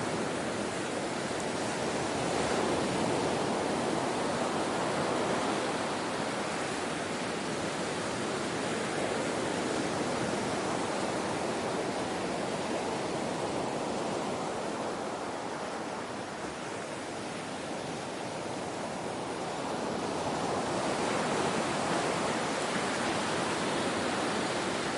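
Ocean waves washing on a shore: a continuous rushing surf that eases off slightly in the middle and swells again near the end.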